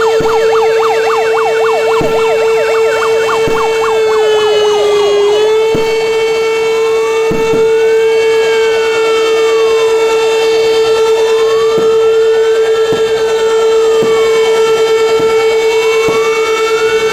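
Fire engine sirens sounding together over a loud, steady horn-like tone: a fast yelp in the first few seconds gives way, about five seconds in, to slow rising and falling wails.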